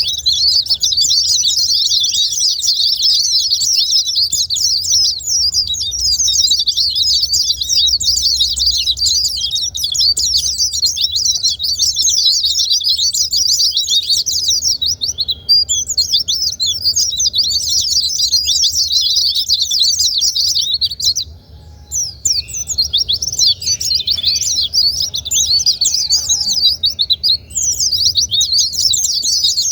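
White-eyes (pleci) singing in a fast, dense, unbroken twitter of high chirps, with a short break a little over two-thirds of the way through. This is a lure song played to prompt caged white-eyes that are reluctant to sing.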